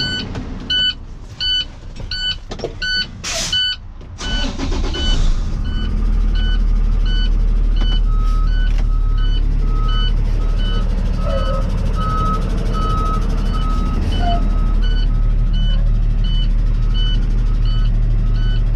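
Tow truck's reversing alarm beeping steadily, about two beeps a second, as the truck backs up with its engine running. A short sharp noise comes about three and a half seconds in, and about five seconds in the engine grows louder and holds a steady rumble.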